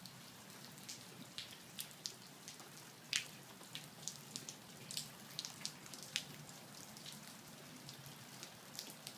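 Steady rain falling, a soft even hiss with many separate drops and drips ticking, one louder than the rest about three seconds in.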